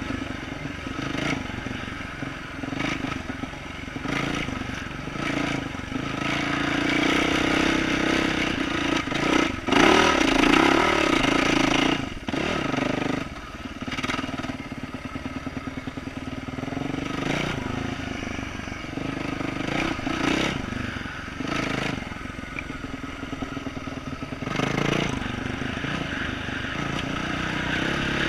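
2012 Yamaha YZ450F dirt bike's single-cylinder four-stroke engine with an aftermarket exhaust, revving up and down under changing throttle while being ridden on a trail, loudest about ten seconds in. Knocks and rattles from the bike running over roots come through along with it.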